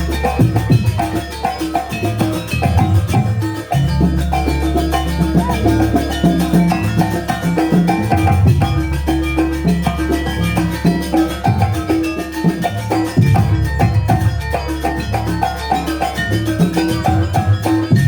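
Live Banyuwangi jaranan ensemble music, a fast sampak-style piece of drums, gongs and metallophones playing steadily with a heavy bass.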